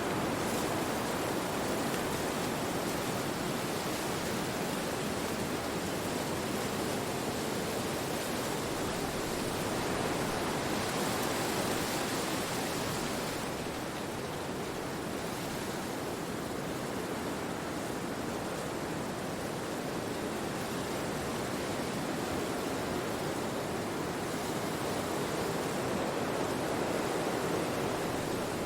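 Wind blowing through forest trees: a steady rush of leaves that swells and eases, stronger about ten seconds in and again near the end.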